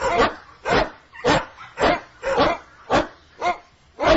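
A dog barking repeatedly in a steady rhythm, about two barks a second.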